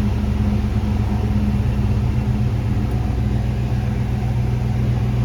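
1995 Ford Mustang GT's 5.0-litre V8 idling steadily. A new fuel filter has not cured its fault: the owner says it is running really lean.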